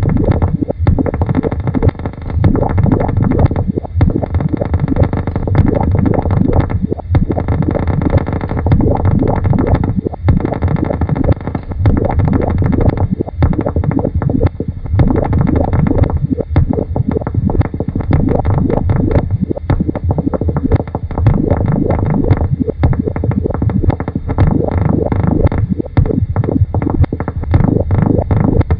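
Experimental electronic noise music: a loud, dense rumbling texture heavy in the low end, crackling with many short clicks and no steady beat.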